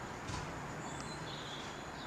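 Steady outdoor background noise with a few faint, short, high bird chirps about a third of a second and about a second in.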